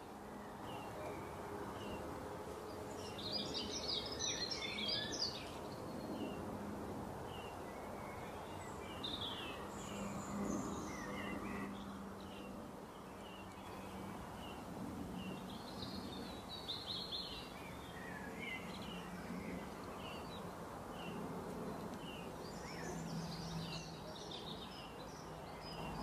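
Several wild birds chirping and calling: short high chirps repeating every second or so, with a few busier bursts of song, over a steady outdoor hiss and a faint low hum.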